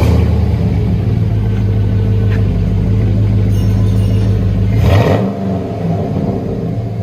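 2002 GMC Yukon Denali's 6.0-litre V8 running at idle through a true dual exhaust with a Flowmaster Super 10 muffler, a deep steady tone. About five seconds in there is a brief surge, after which the deepest tones drop away.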